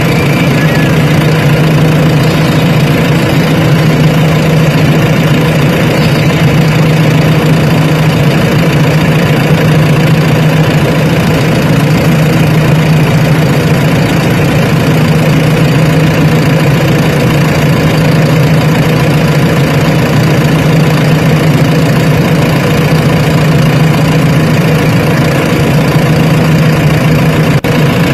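Heavy diesel engine of earth-moving machinery running loud and steady at one constant speed, with no revving.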